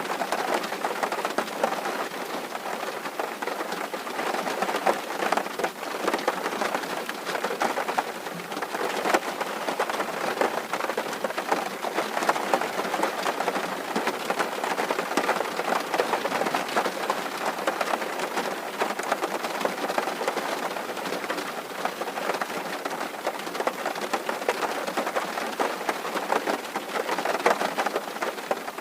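Steady rain drumming on a tin roof, a dense patter of many drops.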